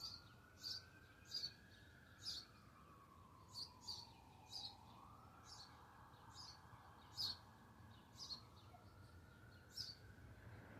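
A small bird chirping: short, sharp, high chirps repeated about once or twice a second at an uneven pace. Under them a faint tone slowly rises and falls over several seconds.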